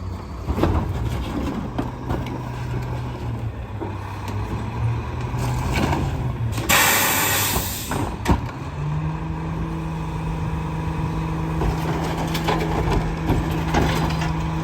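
Split-body garbage truck's diesel engine running, with a loud hiss of released air about seven seconds in. After a click, the engine speeds up and holds a higher steady pitch.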